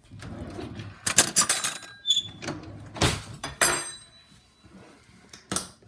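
Kitchen utensil handling: rustling, then a string of sharp knocks and metallic clinks, one ringing briefly, as a kitchen knife is got out and handled to butter bread.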